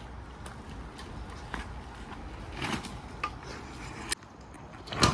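A small mountain bike being ridden off-road, rattling with scattered short clicks and knocks over a low steady rumble.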